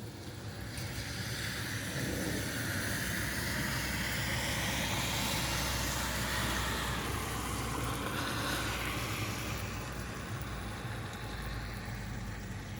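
A vehicle passing on a wet road: tyre and engine noise swells over several seconds, peaks near the middle, then fades away.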